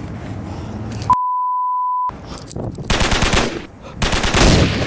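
A steady electronic beep tone lasting about a second, followed by two bursts of rapid automatic gunfire, the second longer and louder.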